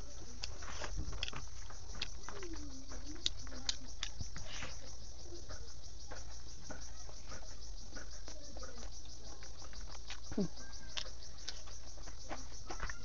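Close eating sounds: chewing pork intestines and rice, with scattered wet mouth clicks. Underneath, a steady, rapid high-pitched chirping of insects.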